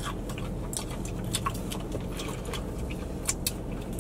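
Chewing and mouth sounds of people eating fried chicken tenders, scattered small wet clicks and crackles over a low steady hum.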